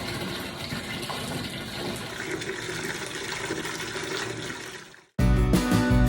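Bath tap running into a tub, a steady gush of water filling the bath; it fades out about five seconds in and music starts abruptly.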